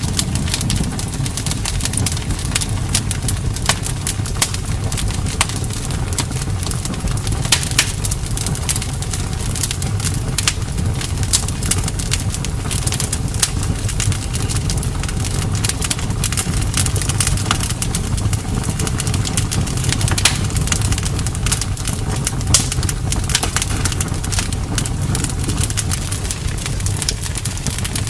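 Campfire burning, wood crackling with many quick sharp pops over a steady low rumble of the flames.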